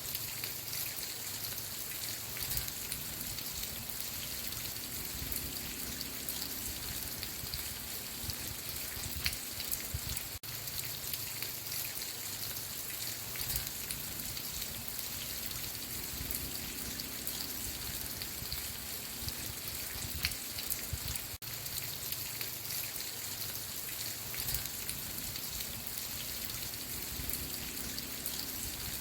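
Steady rainfall: a dense hiss of rain with many small drops ticking on a surface. The sound dips out very briefly twice.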